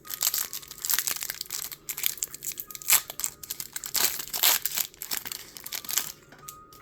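Pokémon Lost Origin booster pack packaging being torn and crinkled open by hand: a dense run of crackling and tearing that stops about six seconds in.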